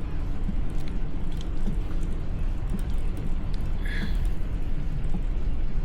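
Steady low rumble of wind on the microphone and road noise from a moving bicycle, with a brief high chirp about four seconds in.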